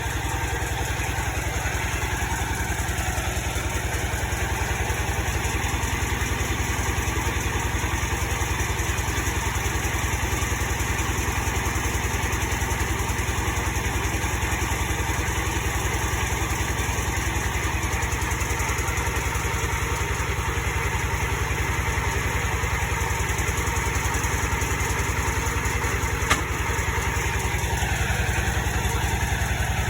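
Engine of a drilling machine running steadily at a constant speed, with one short click near the end.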